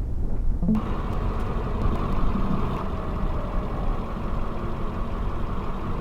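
Steady vehicle engine and road noise, a low rumble with hiss, briefly dulled for under a second at the start.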